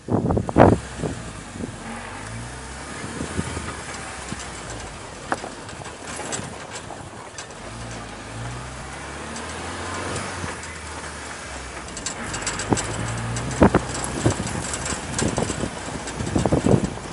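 Car running with a knock on its left side: sharp single knocks stand out over the steady engine drone, one about five seconds in and several more near the end.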